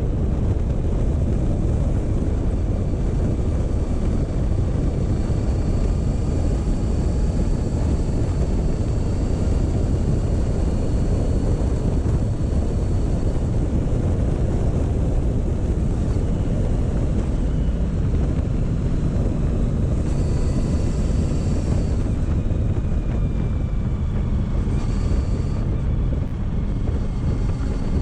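Motorcycle riding at a slow pace, heard on board: a steady rush of wind over the microphone, with the engine's note faintly rising and falling underneath as the throttle changes.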